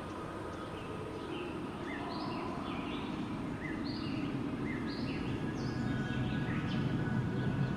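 Steady wind noise that grows a little louder toward the end, with small birds chirping in a run of short, repeated calls through the middle.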